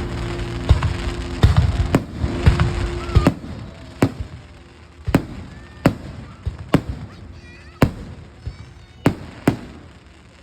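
Fireworks going off: a dense run of loud bangs for the first three seconds, then single sharp bangs about once a second.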